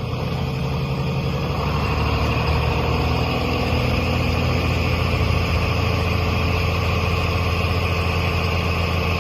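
A truck engine running steadily with a deep low hum.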